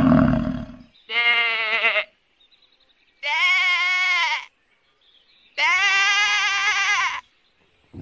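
A young goat bleating three times, each call high with a wavering pitch and lasting about a second, spaced a couple of seconds apart. A deep, low sound dies away in the first second.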